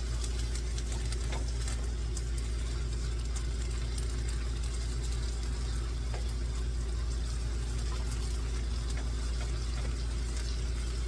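Steady low mechanical hum under ground meat cooking in a frying pan, with a few light clicks and scrapes of a utensil.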